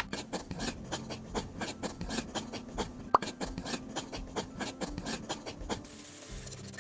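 Rapid rasping, scraping strokes, about six a second, as a small hand tool works material on a miniature building model. Near the end the strokes stop and a soft hiss takes over. Faint background music runs underneath.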